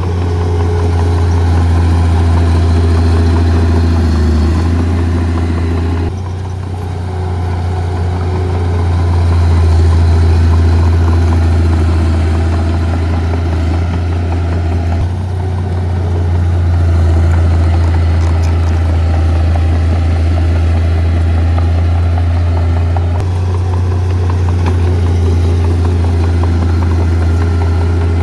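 Heavy diesel engines of earth-moving machinery running with a deep, steady drone, swelling a little in level now and then. The sound changes abruptly a few times.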